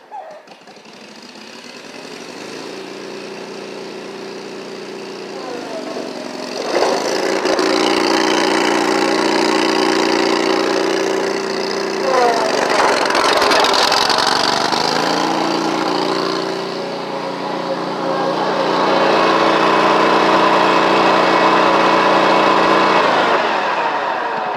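Riding lawn mower engine running loud and being revved, with its pitch and loudness climbing sharply about six seconds in and again about twelve seconds in, easing off a little later and then coming back up.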